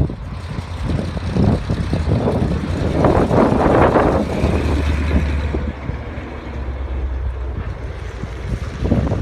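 Wind buffeting the microphone, a loud uneven rumble, with a stronger noisy gust about three to four seconds in.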